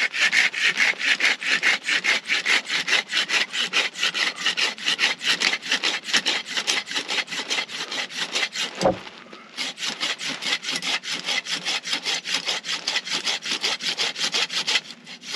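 Silky Gomboy folding pull saw cutting a resinous fatwood pine knot in quick, even strokes, raising sawdust. The sawing halts briefly with a single knock about nine seconds in, then resumes and stops just before the end.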